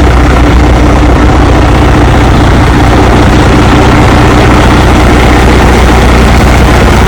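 A heavy vehicle engine running steadily with a loud, constant low drone.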